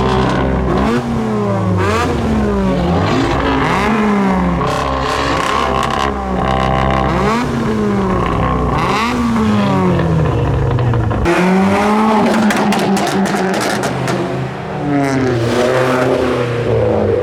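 Car engines being revved again and again, the pitch climbing and falling back every second or so, with more than one engine at times overlapping. Partway through, the revving changes character as a different engine takes over.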